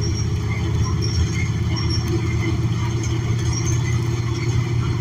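Cummins Westport L9N natural-gas engine of a New Flyer XN40 transit bus running steadily, heard from inside the passenger cabin with the air conditioning off.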